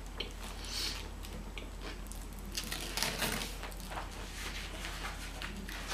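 Quiet eating sounds: chewing, with soft rustling of the sandwich paper and food being handled, and scattered small clicks. A steady low hum runs underneath.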